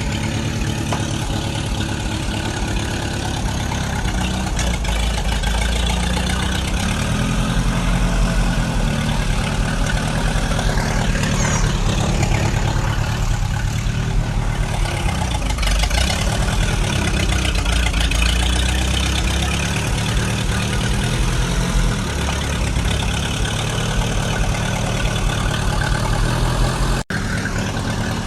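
Tractor engine running steadily, its speed shifting slightly a few times, with a brief break near the end.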